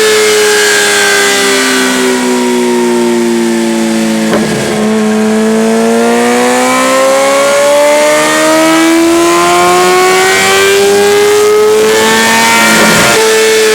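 Kawasaki Ninja ZX-6R inline-four engine running through a LeoVince Factory R Corsa titanium full exhaust system. Its note falls in pitch for about four seconds, breaks briefly, then climbs slowly and steadily before another short break near the end.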